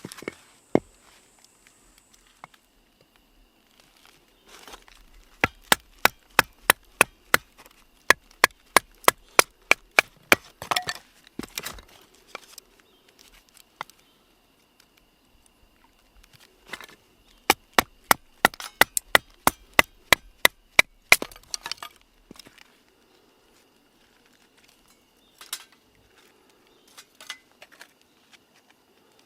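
Firewood being chopped or split: two runs of quick, sharp wooden strikes, about three a second, each run lasting a few seconds, with a few scattered knocks between them.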